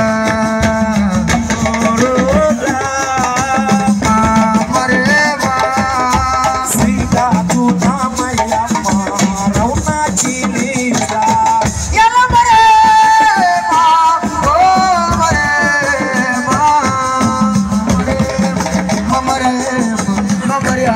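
Assiko band music: drums and shaker rattles under a wavering melody line, with a steady low sustained note beneath.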